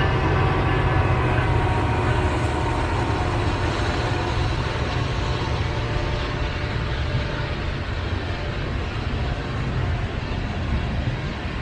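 Union Pacific freight train rolling past: a steady heavy rumble of diesel locomotives and rail noise, with faint ringing tones over the first few seconds and the level easing slightly near the end.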